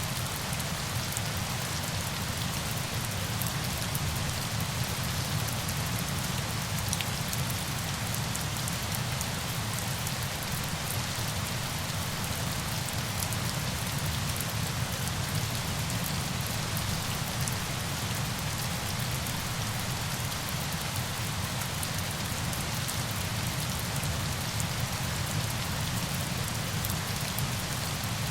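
Steady rain falling: an even hiss with small drop ticks scattered throughout.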